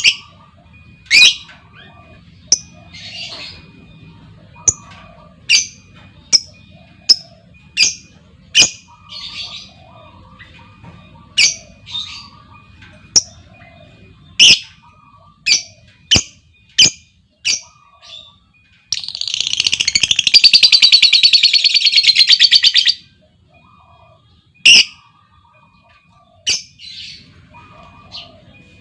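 Lovebirds calling: sharp, short squawking chirps every half-second to a second, then about two-thirds of the way in a rapid rattling trill lasting about four seconds (the long 'ngekek' chatter), followed by more single chirps.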